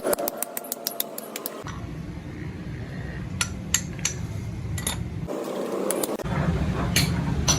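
Metal tools and parts clinking: a quick run of sharp clicks at first, then scattered knocks, over a low rumble that cuts in twice.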